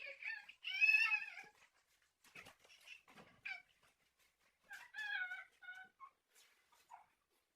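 A small animal's high-pitched, wavering cries: a longer call about a second in, another around five seconds in, and shorter ones in between.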